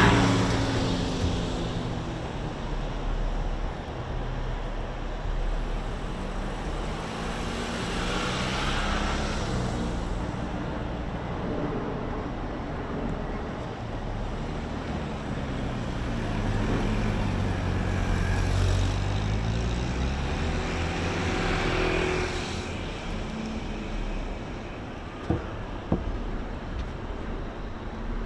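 Road traffic with cars passing one after another, each swelling and fading as it goes by. Two short sharp clicks come near the end.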